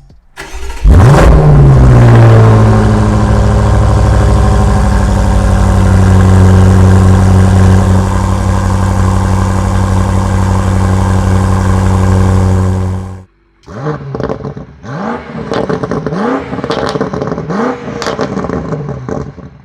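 BMW M5 Competition's twin-turbo V8 cold-starting: it fires about a second in, flares and settles into a steady high idle. It stops abruptly, then comes a series of quick revs rising and falling in pitch, with crackles and pops from the exhaust.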